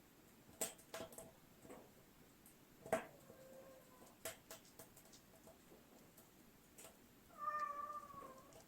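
A cat meowing: one drawn-out, slightly falling meow near the end, and a fainter shorter one about three seconds in, amid scattered small clicks and taps.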